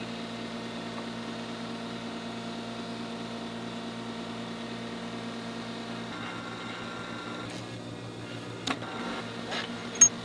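Steady electric machinery hum in a metal shop, its tone shifting slightly about six seconds in. A few light clicks near the end, then a sharp ringing metal tap just before the end.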